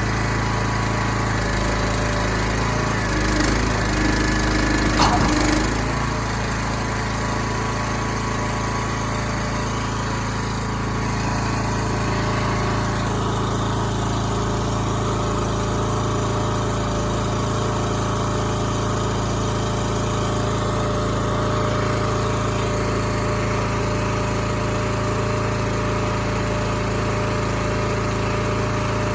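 A Pack Rat pod truck's engine runs steadily while its pod-lifting rig is working. About four to five seconds in there is a louder stretch, with a higher whine and a short falling squeal.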